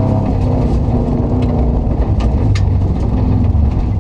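Subaru Impreza rally car's flat-four engine running under load, heard from inside the cabin, with a few sharp knocks over it.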